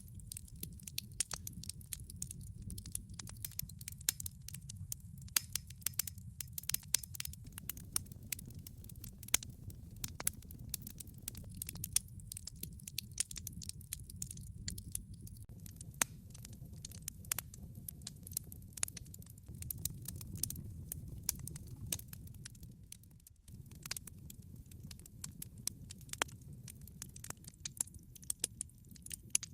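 Wood log fire crackling, with frequent irregular sharp pops and snaps over a low, steady rumble of burning.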